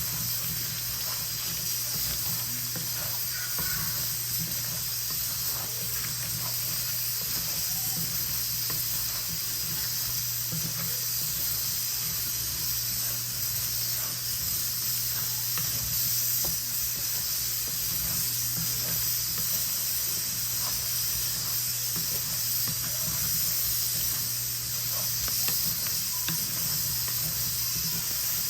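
Potatoes frying in hot oil in a pan: a steady sizzle with small crackles, over a steady low hum.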